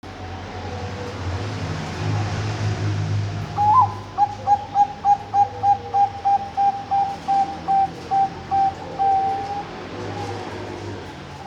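Bangkok-line zebra dove (perkutut) cooing: a short rising opening note, then a rapid even run of about sixteen short coos, roughly three a second, ending on a longer drawn-out note. A low steady hum sits underneath.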